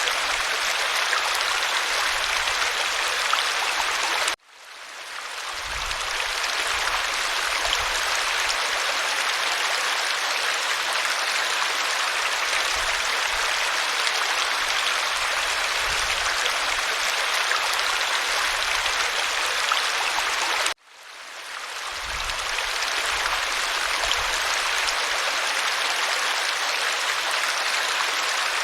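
Waterfall, a steady rush of falling water. It cuts out abruptly twice, about four seconds in and again about twenty-one seconds in, and swells back up over a second or two each time.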